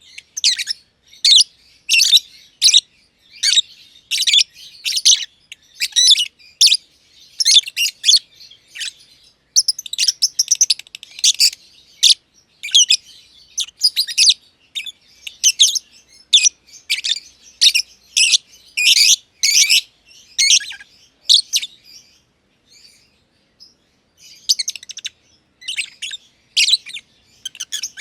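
Masked lovebirds (Agapornis personatus) chirping: a rapid string of short, high-pitched chirps about two a second, breaking off for a couple of seconds near the end before starting again.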